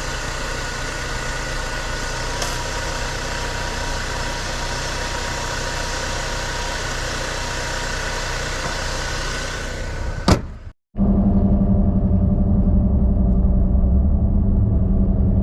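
BMW 316i E46 four-cylinder petrol car running, with steady engine and road noise. About ten seconds in there is a sharp click and a brief dropout, then a louder, deeper engine sound with a strong low hum.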